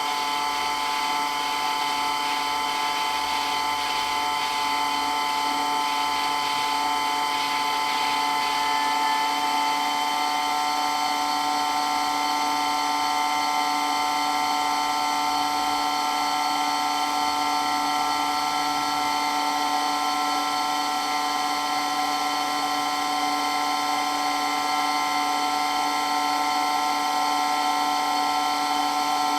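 Water pump running steadily with a loud, even whine made of several steady tones.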